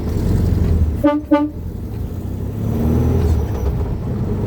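Two short car-horn toots about a second in, over the steady running of a Volkswagen Beetle's air-cooled flat-four engine and road noise, which grows louder about three seconds in.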